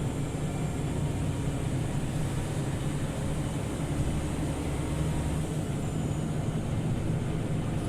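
Scania OmniLink CL94UB city bus driving, heard from inside the cabin: steady engine drone and road rumble. The deepest part of the rumble drops away about five and a half seconds in.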